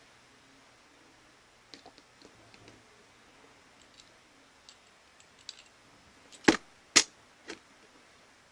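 Light clicks and taps of small tool parts being handled on a workbench. Near the end come two sharp knocks half a second apart, then a softer one.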